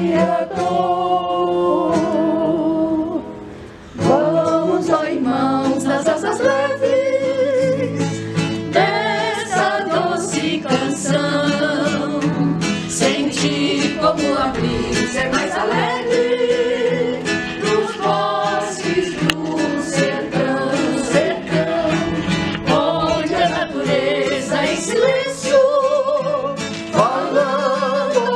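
A song sung with guitar accompaniment, the voice carrying a melody over steady plucked strings, with a short break in the singing about three seconds in.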